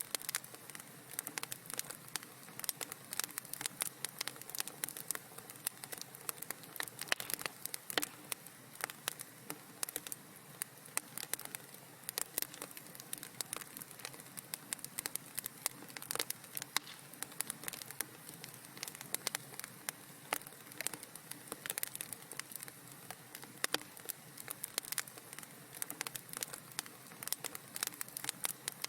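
Wood fire in a fireplace crackling, with a steady hiss of flames under frequent irregular sharp pops and snaps.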